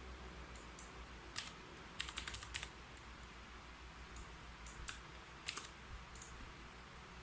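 Typing on a computer keyboard: scattered single keystrokes with a quick run of several keys about two seconds in.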